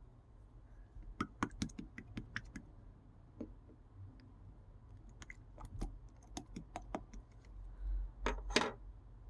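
Slime made from Elmer's glue being pressed and poked, giving runs of sharp sticky clicks and little pops. About eight seconds in comes a longer crackling squish.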